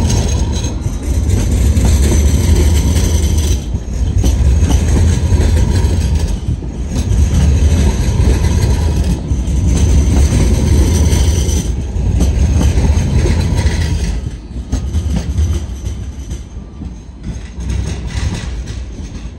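A train running past close by: a heavy rumble of wheels on rails that surges and dips about every two and a half seconds as each carriage goes by, then dies away over the last few seconds.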